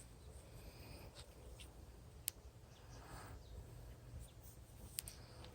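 Near silence: a faint low rumble of wind on the microphone, with a couple of small faint clicks.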